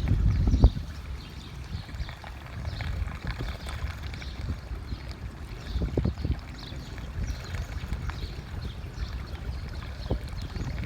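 Wind buffeting the microphone as a low rumble, strong for the first second then easing, over faint lapping and trickling of pool water.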